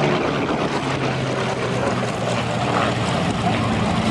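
Piston-engined propeller aircraft in flight, a steady engine drone.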